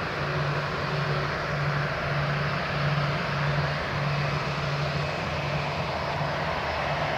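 Airbus A330-300 jet engines running steadily on departure, with a low hum that pulses about twice a second.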